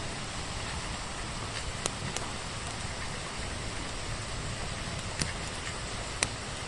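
Steady hiss of falling rain, with a few sharp pops of a crackling wood fire, the loudest about six seconds in.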